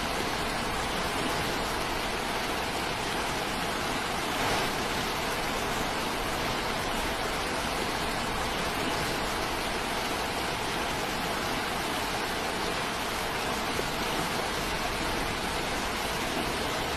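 Steady rushing noise like flowing water, even and unbroken.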